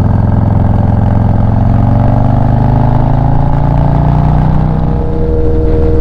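Motorcycle engine running under way, its pitch rising gradually as the bike gathers speed, then settling to a steadier note about five seconds in.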